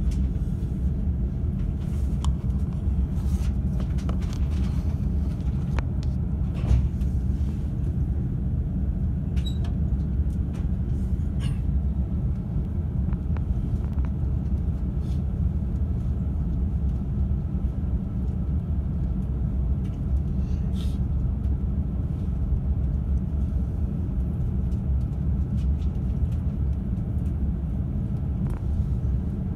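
JR East E531 series electric train running, heard inside the upper deck of a bilevel Green car: a steady low rumble, with scattered light clicks and knocks, mostly in the first half.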